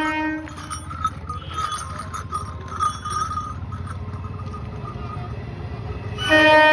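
Train horn sounding a steady multi-tone blast that ends about half a second in, then the low rumble of a train on the rails with scattered clicks, and a second loud horn blast starting near the end. The train is entering the station.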